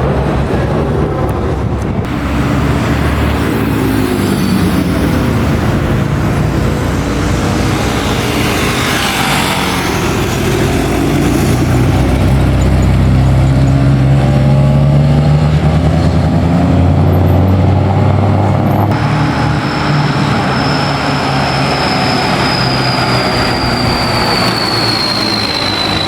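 Classic car engines running and driving by, in several short cuts. One pass is louder and closer about halfway through. A high whine falls slowly in pitch through the last several seconds.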